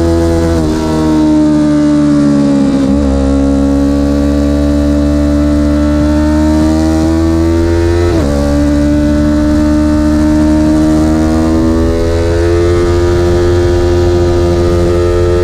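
A vehicle's engine running hard on a track lap. Its pitch sags over the first few seconds, then climbs steadily, with short breaks about three and eight seconds in.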